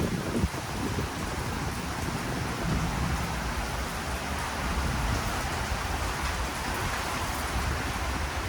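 Steady rain falling, a continuous hiss with a low rumble underneath.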